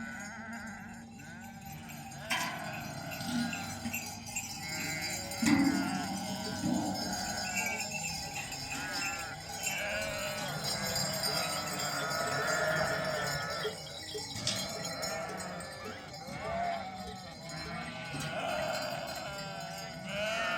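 A flock of sheep bleating, many short overlapping calls, with livestock bells clanking and a few sharp knocks.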